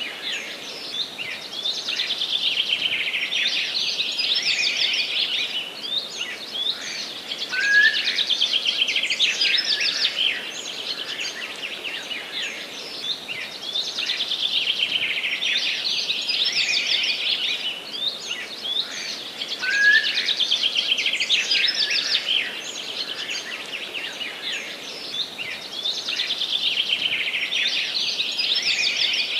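A songbird singing the same song again and again, each phrase a quick run of rapid notes lasting about three seconds and coming about every six seconds, five times in all. A faint steady hiss of background noise lies underneath.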